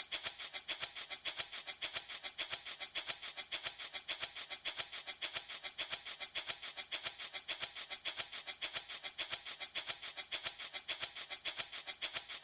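Handmade wooden baby rattle shaken steadily in a quick, even rhythm of several shakes a second, giving a dry, high-pitched rattle of beads or pellets.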